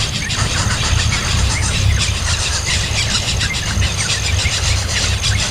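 Repeated short high squeals, typical of a baby bird begging for food, over a steady low rumble.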